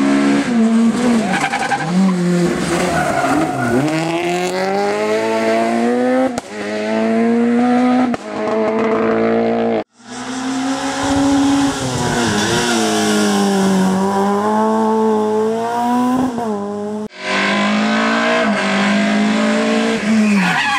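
Rally car engines at full effort on a special stage, revving up and dropping back as they shift gears and brake for corners. The sound cuts abruptly twice, switching to another car each time.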